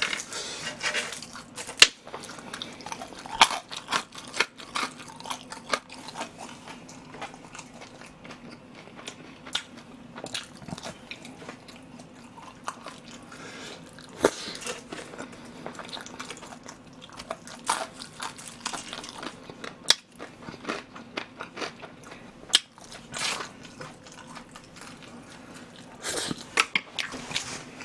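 Close-up mouth sounds of a person eating soy-sauce tangsuyuk (Korean fried pork in soy sauce): biting and chewing with irregular wet smacks and crunches.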